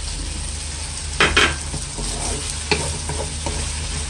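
Chicken and vegetables sizzling in a hot wok as a splash of water goes in, with a wooden spatula stirring and knocking against the pan: two sharp knocks just after a second in and another near three seconds.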